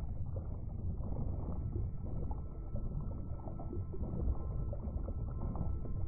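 Underwater sea-floor ambience: a steady low rumble and wash of water heard from below the surface, with faint scattered crackles. A faint thin steady tone comes in near the end.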